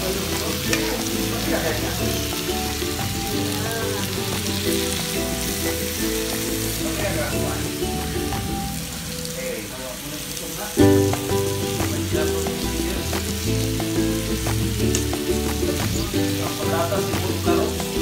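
Meat sizzling and frying on a hot tabletop grill pan, under background music that dips briefly and comes back suddenly about eleven seconds in.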